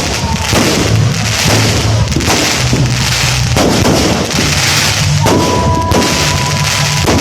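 Fireworks going off in a dense, continuous barrage of bangs and crackling, with a steady whistle for about two seconds near the end.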